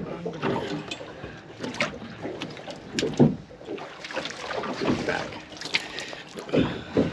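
Knocks and thumps on a small open fishing boat, over a steady wash of water and wind.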